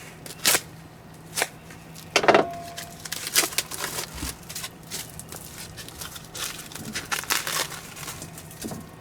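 Cast aluminum camping cookware clanking as pots and lids are handled and set down: a few sharp knocks, the loudest about two seconds in with a brief metallic ring, then lighter rattling and clicking.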